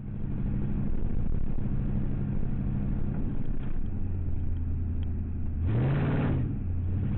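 Car engine and road noise while driving. About six seconds in, a louder engine note briefly rises and falls.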